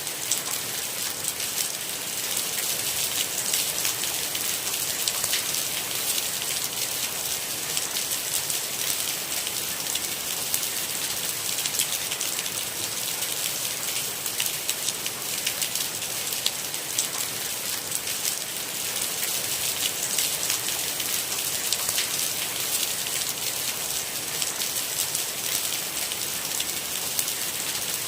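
Steady rain falling, a continuous hiss dense with fine, quick drop ticks.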